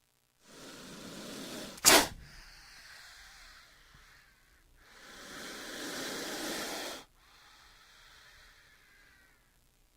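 King cobra hissing. A long hiss is cut by a sharp, loud puff just before two seconds in. A second long hiss runs from about five seconds and stops abruptly near seven, and a faint hiss trails after it.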